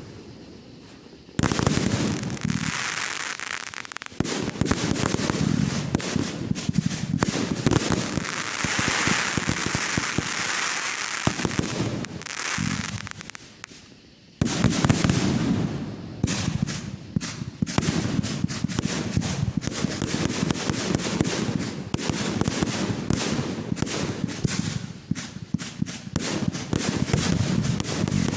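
Fireworks going off in a dense barrage of bangs and crackling. A short lull at the start breaks off with a sharp burst about a second in, and a second lull is broken by another loud burst about halfway through.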